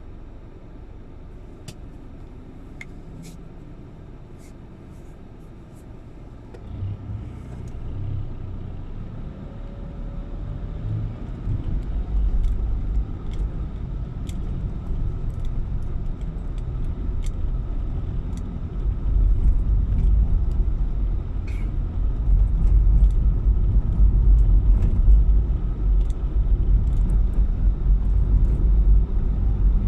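Car on the move, a low rumble that grows louder about six seconds in and again near twenty seconds.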